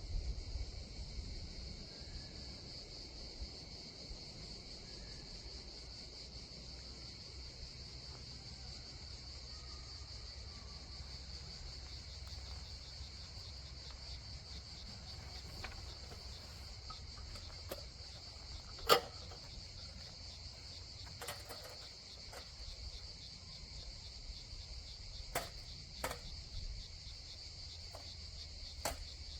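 A steady high insect chorus trilling continuously in the forest. A few sharp clicks or knocks stand out over it, the loudest about two-thirds of the way in, with others near the end.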